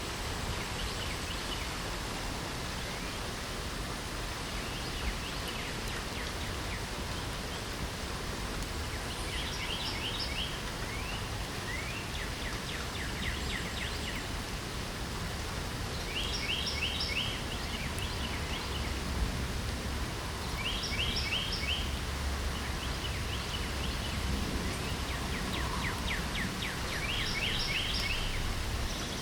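Steady hiss of light rain with a songbird singing over it, repeating a short, quick series of high notes every few seconds.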